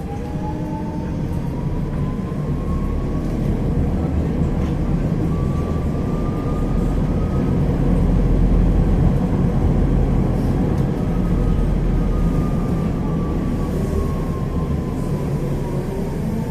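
Electric tram running on its tracks over a steady low rumble. The whine of its traction drive rises in pitch over the first several seconds as it accelerates, holds, then falls in the second half as it slows.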